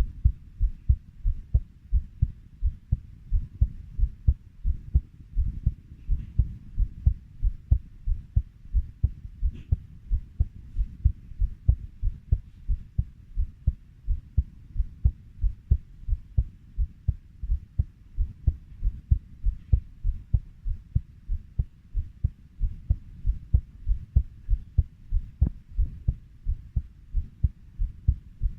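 Human heartbeat at about 90 beats a minute: a steady rhythm of low, paired lub-dub thuds.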